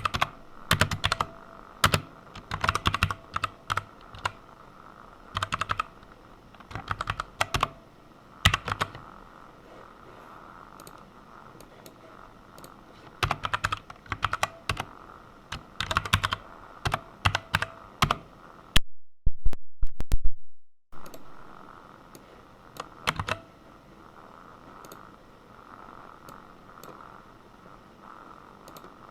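Computer keyboard typing in quick bursts of keystrokes with pauses between them, over a faint steady hum. The sound cuts out for about two seconds partway through.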